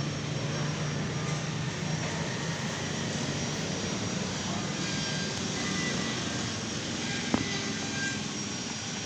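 Steady motor-vehicle engine noise, with one sharp click about seven seconds in.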